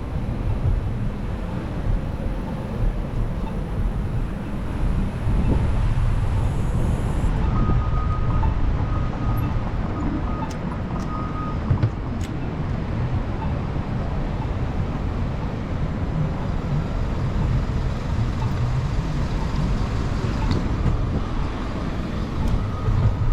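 Steady city street traffic and road noise heard while riding a bicycle, with a heavy low rumble throughout and a faint thin tone that comes and goes.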